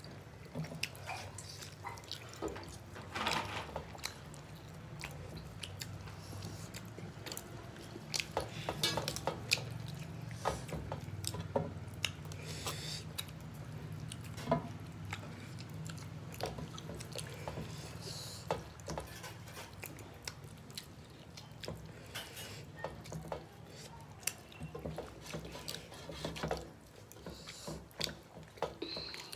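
Wet chewing and lip-smacking of people eating rice and chicken curry with their hands, with many short sharp mouth clicks and fingers squishing food on metal plates, over a steady low hum.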